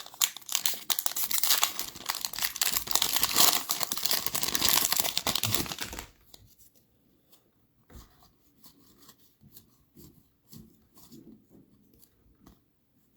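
A trading card pack's wrapper being torn open and crinkled for about six seconds. After that it goes quiet, with only faint scattered taps and rustles.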